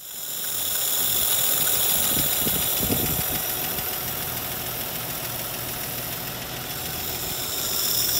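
Toyota F-series inline-six engine idling steadily.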